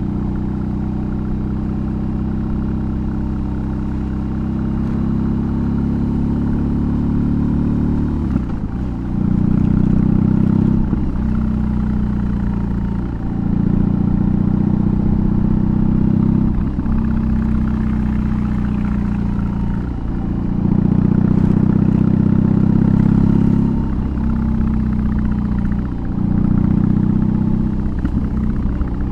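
BMW R18's big air-cooled boxer twin running under way through a custom exhaust, heard from the rider's position. The engine note drops briefly several times as the throttle is eased or gears change, and swells into louder stretches as it pulls again.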